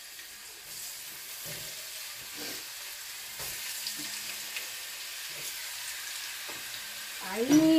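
Chicken legs searing in hot oil in a pan: a steady sizzle that swells a little about half a second in, with a few faint knocks from handling in the kitchen.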